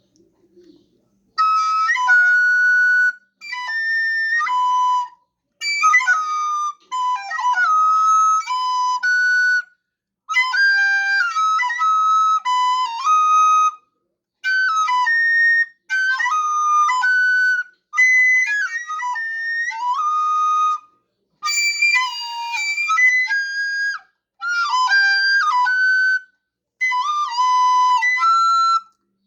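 Unaccompanied melody on a flute-like wind instrument, played in short phrases of one to three seconds separated by brief pauses, each phrase a run of high notes stepping up and down.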